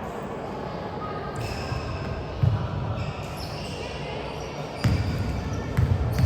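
Basketball bouncing on a gym floor during play, several heavy thuds over the echoing noise of a large hall.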